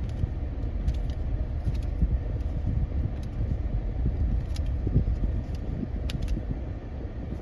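Steady low rumble of a car moving on the road, heard inside the cabin, with a few short light clicks scattered through it.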